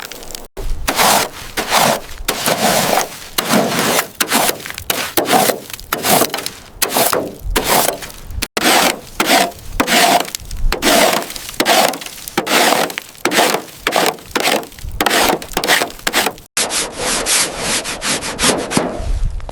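Rhythmic back-and-forth scraping strokes of a hand tool worked against rough material, about two strokes a second, broken by two brief cuts.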